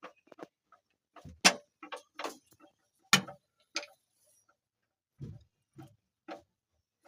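About a dozen irregular sharp knocks and clicks of cooking work, with two louder knocks about one and a half and three seconds in.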